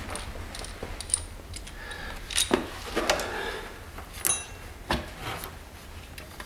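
Scattered clinks and knocks of metal tools and parts being handled, with one short metallic ring about four seconds in.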